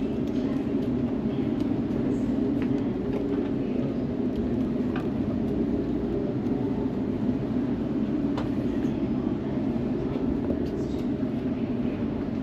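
Inside a moving passenger train: a steady running rumble of the carriage, with a few faint clicks now and then.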